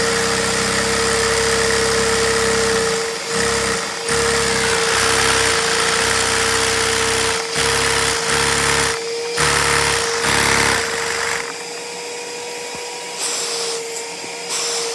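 Lego inline two-cylinder vacuum engine running at high speed over a steady hiss and high whine from its vacuum supply. From about three seconds in the engine's low running sound drops out and comes back several times, then stops about eleven seconds in, leaving only the hiss and whine.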